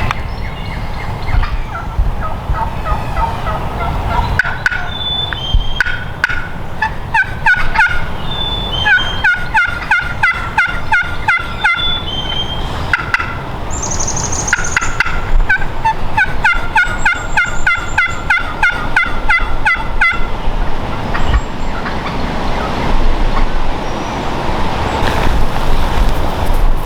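Turkey calling: long runs of quick, repeated notes, each dropping in pitch, thickest in the middle of the stretch and tailing off near the end.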